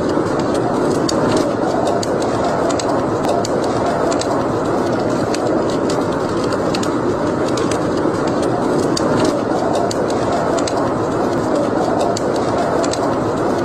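Wood fire burning in a fireplace: a steady rushing of flames with small crackles and pops scattered irregularly throughout.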